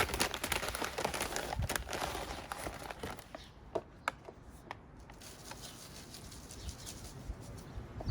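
Plastic bag of bird-food peanuts rustling and crinkling as it is handled and emptied, fading after about three seconds, followed by a few light clicks.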